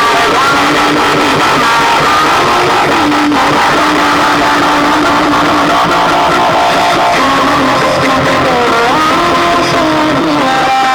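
Loud rock music with guitar, played through a car audio system pushed to full volume in a subwoofer burn-out test.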